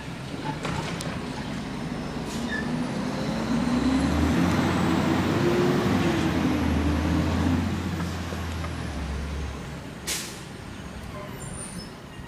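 Garbage truck's diesel engine revving up for a few seconds and settling back down, then a short hiss of air brake or air release about ten seconds in.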